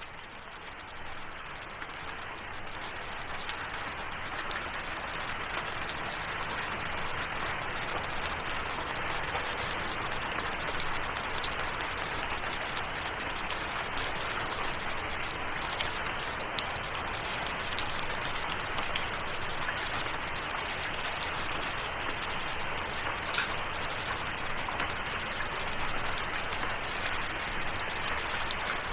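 Steady rain: a dense even hiss with scattered sharp drop clicks. It fades in over the first few seconds, then holds level.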